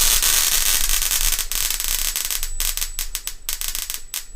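High-voltage electrical discharge from a handheld ozone generator, crackling and hissing as it ionises the air. A dense hiss breaks up about halfway through into separate sharp snapping crackles, with a thin high whine alongside.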